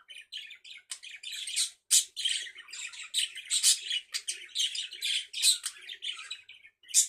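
Pet budgerigars chattering and singing to each other: a rapid, continuous run of warbles, chirps and squawks.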